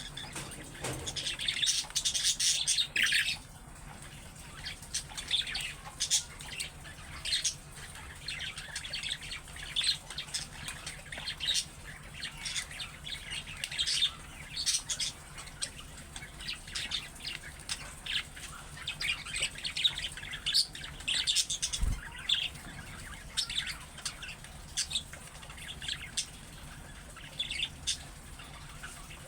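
Budgerigars chirping and chattering in quick, irregular short calls, with a busier, louder flurry about two seconds in.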